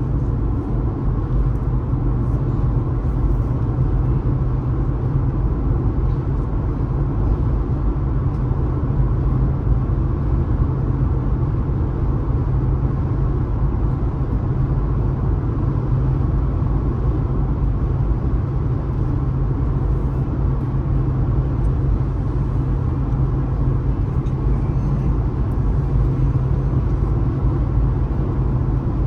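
Steady low rumble of a car being driven along a road: tyre and engine noise with no changes or sudden sounds.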